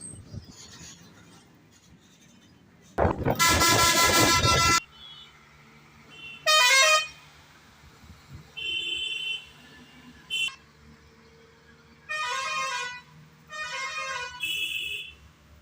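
Vehicle horns honking: one loud long blast about three seconds in, then a string of shorter honks, over a faint steady low hum.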